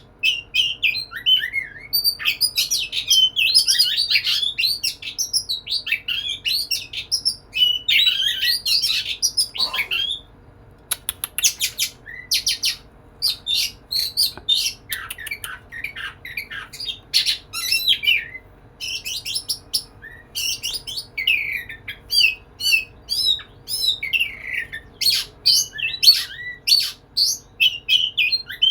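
Male Oriental magpie-robin (kacer) singing in full voice, a fast, varied run of whistles, chirps and harsh squawky notes with a brief pause about ten seconds in. It is a courtship song to a female.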